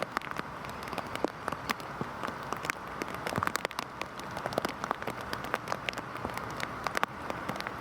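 Heavy rain falling steadily, with a dense patter of individual drops striking a hard surface close by.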